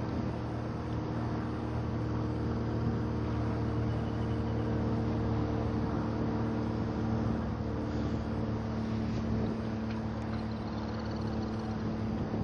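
Motorboat engine running steadily with an even, low hum, heard from aboard the boat.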